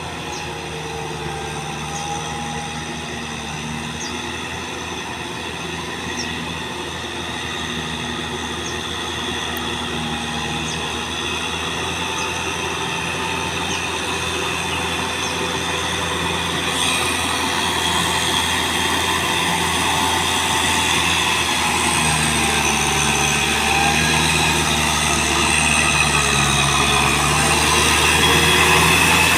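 Kubota tractor's diesel engine running under load while plowing, with high steady metallic whining over the engine note, growing steadily louder as it comes closer.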